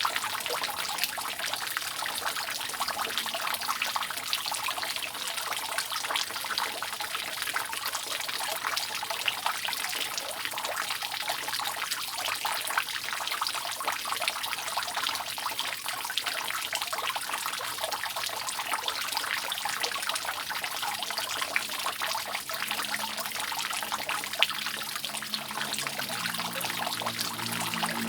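Water dripping and trickling steadily off a roof, a dense, even patter of many small drops. A faint low hum with several steady tones comes in near the end.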